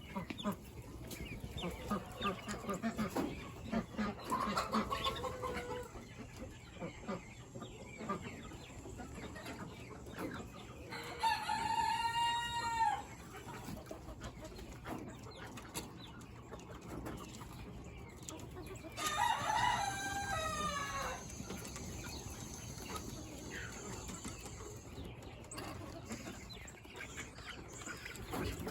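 Chickens clucking, with a rooster crowing twice, once around the middle and again about two-thirds of the way through.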